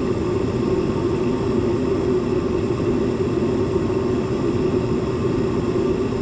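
Gas furnace running with a steady mechanical hum. Its inducer motor is overamping, drawing about 3.5 A against a 1.7 A rating: a sign that the motor is going to go bad soon.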